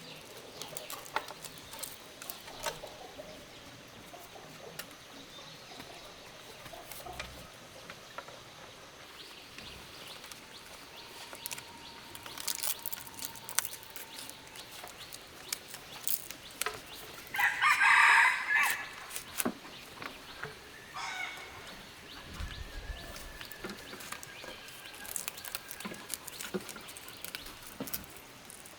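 A rooster crowing once loudly, about a second and a half long, past the middle, with fainter crowing and hens clucking, among scattered small clicks and knocks.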